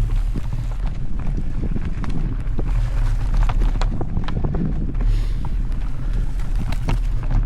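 Mountain bike riding a dirt trail: steady wind rumble on the microphone, with tyre noise and scattered sharp clicks and rattles from the bike over the rough ground.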